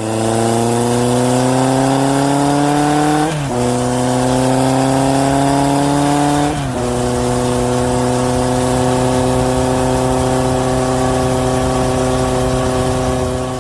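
A motor vehicle engine accelerating, its pitch climbing and dropping twice at gear changes, then holding a steady cruising note before fading out near the end.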